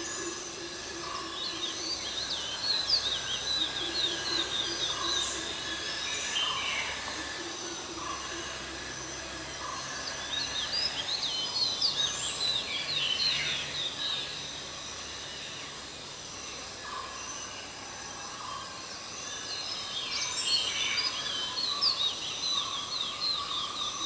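Babblers calling in three bouts of rapid, high chattering notes, about two, ten and twenty seconds in, over a steady outdoor background hum.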